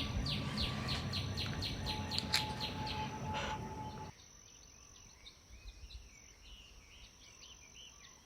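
A bird chirping in a run of short, falling notes, about three or four a second, over a steady high insect-like whine. The background noise drops away abruptly about four seconds in, and fainter calls go on after that.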